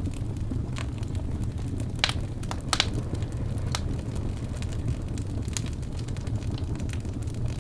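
Wood fire burning in a fireplace: a steady low rumble of flames with scattered sharp crackles and pops from the burning logs, two of the loudest about two and three seconds in.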